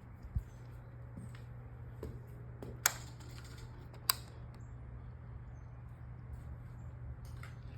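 Faint steady low hum with a dull knock about half a second in and two sharp clicks about three and four seconds in.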